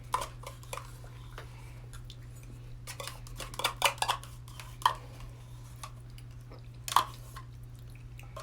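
Light clinks and taps of tableware, a cup and utensils handled during fast eating, scattered through, the loudest about three to four seconds in and again about seven seconds in, over a steady low hum.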